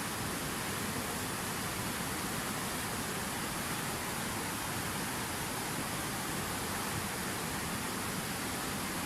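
Water falling steadily in a fountain, a constant splashing rush with no changes.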